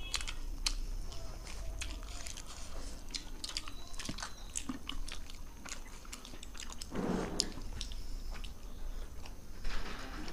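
Two people chewing soft roti with palak paneer close to a table microphone: wet mouth noises with many short lip and tongue clicks, and a short low hum about seven seconds in.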